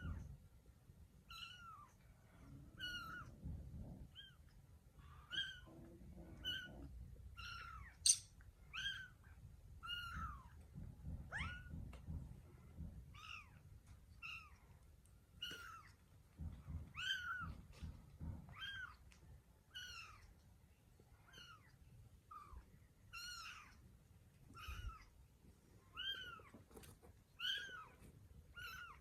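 Kittens mewing over and over in short, high-pitched calls, about one a second, each rising then falling in pitch.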